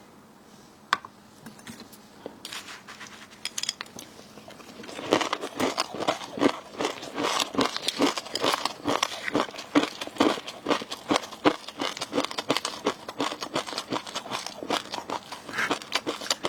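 Close-miked crinkling and crunching of food or its packaging. A few sparse clicks come first, then a dense run of crackles from about five seconds in.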